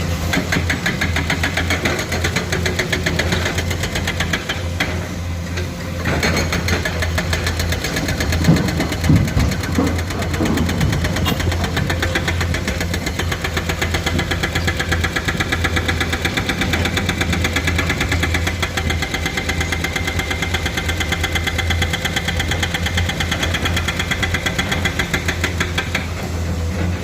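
Excavator's diesel engine running steadily with a fast, even pulsing, and a few louder thumps about eight to ten seconds in.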